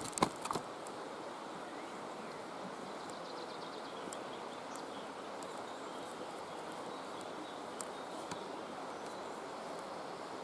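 Steady outdoor woodland background with faint, scattered short bird chirps. A couple of brief knocks come right at the start.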